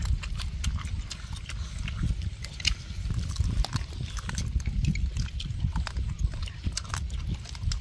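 Close-up chewing and lip-smacking of a person eating with her mouth near the microphone: many small, irregular wet clicks over a low rumble.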